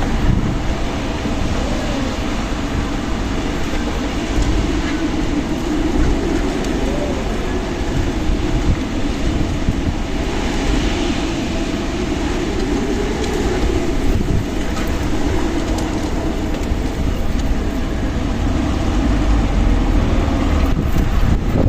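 Strong wind blowing steadily with a deep rumble, and a hollow howling tone that slowly rises and falls.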